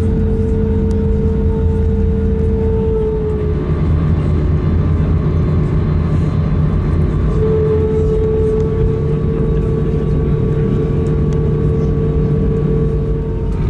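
Airbus A320neo engines running at taxi power, heard inside the cabin as a low rumble with a steady hum and whine. The hum drops slightly in pitch a few seconds in and rises back about halfway through, as the thrust changes.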